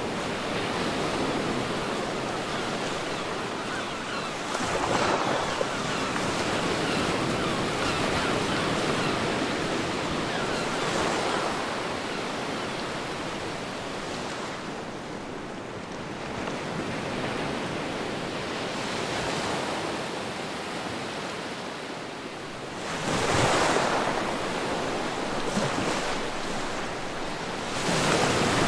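Ocean surf washing continuously on a beach, with several louder waves breaking and surging over it, the biggest two near the end.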